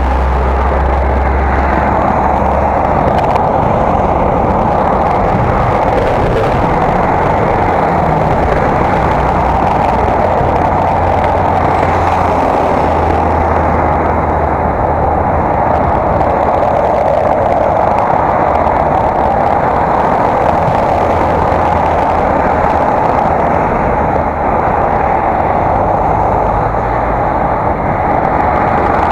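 Steady wind and road noise on a bicycle-carried action camera's microphone while riding, loud and unbroken, with a constant low rumble underneath.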